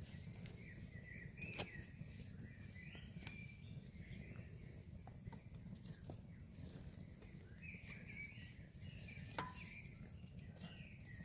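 Faint bird chirping over a low steady rumble, with a couple of sharp clicks.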